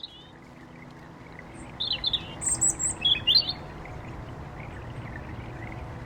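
Songbirds chirping: several short, bright call phrases in the first three and a half seconds, then only a steady low background rumble.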